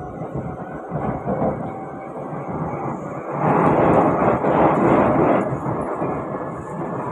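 SMRT C151B metro train running between stations, heard from inside the carriage: a steady rumble of wheels on rail, swelling into a louder rushing stretch of about two seconds midway before settling back.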